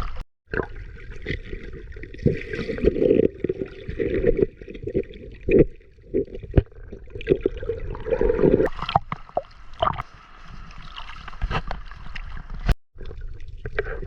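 Water sloshing and gurgling in irregular bursts, with scattered sharp knocks and splashes, as a fishing net is worked in shallow water.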